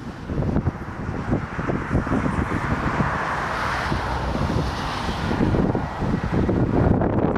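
Gusty wind buffeting the microphone. Through it, the engine noise of a landing airliner swells and fades around the middle.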